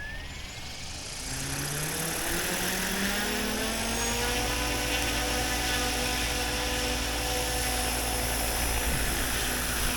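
RC helicopter's motor and rotor spooling up: the pitch rises over the first few seconds, then holds steady as the head reaches speed.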